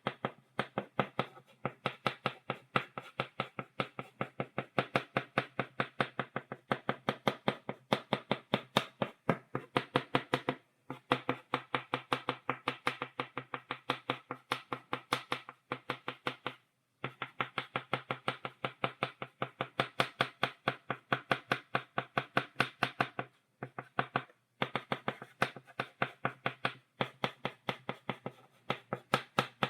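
Chalk tapped rapidly against a blackboard, stippling dots: a fast, even run of sharp taps, broken by short pauses about ten, seventeen and twenty-four seconds in.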